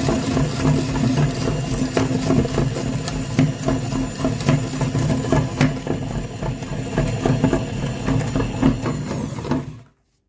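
A small motor running steadily with a dense rattle of clicks, cutting off abruptly near the end.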